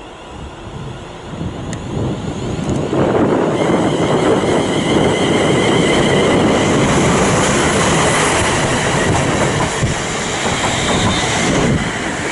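Class 350 electric multiple-unit train running into the platform, growing louder over the first three seconds, then a steady heavy rumble of wheels on rail with a high, even whine from about three and a half seconds in.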